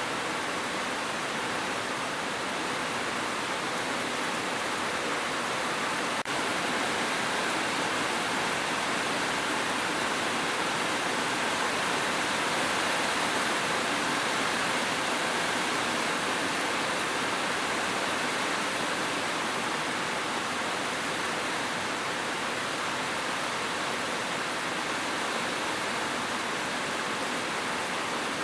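Steady heavy rain, a dense even hiss of falling water with no distinct drops, broken only by one faint click about six seconds in.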